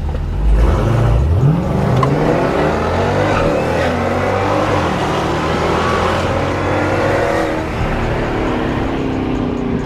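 Jeep SRT's V8 launching at full throttle from a standstill, its pitch climbing through the gears in several rising sweeps, then easing off near the end.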